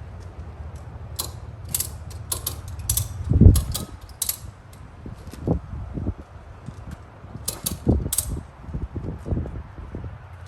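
Ratchet tie-down straps being cranked tight to hold down a motorcycle, an uneven series of sharp ratchet clicks. A heavy thump about three and a half seconds in is the loudest sound, with lighter knocks later.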